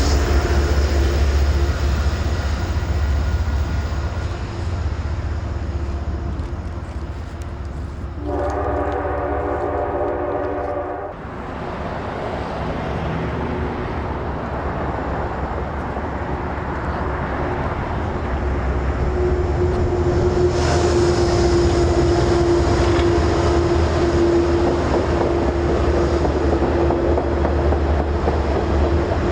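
Diesel passenger train led by Metro-North GE P32AC-DM locomotives running by with a heavy low rumble throughout. The multi-chime horn sounds at the very start and again about eight seconds in, for about three seconds, cutting off sharply. From about two-thirds of the way through, a steady tone rises over the rumble.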